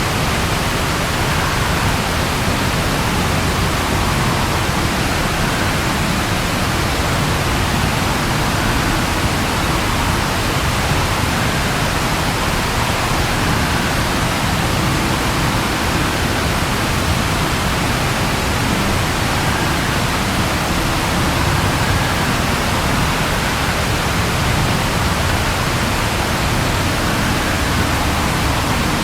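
Steady rain falling, an even hiss with no thunder claps or distinct drops standing out.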